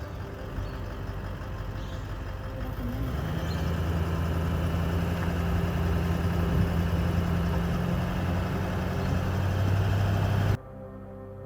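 A vehicle engine running steadily, heard with background music. The engine sound grows stronger about three seconds in and cuts off abruptly near the end.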